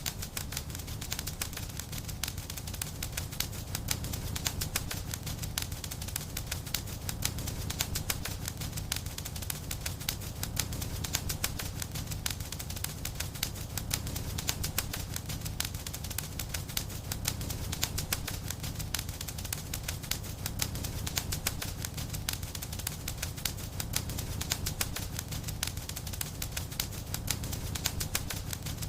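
Wood fire crackling in a fireplace: a dense, irregular stream of sharp pops and snaps over a steady low rumble of flame.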